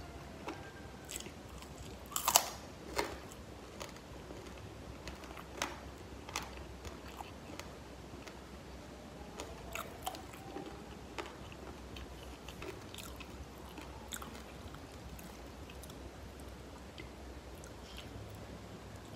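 Close-miked biting and chewing of crispy fried chicken: a loud crunch about two seconds in as a piece is bitten, then scattered crunchy chewing clicks that thin out in the second half.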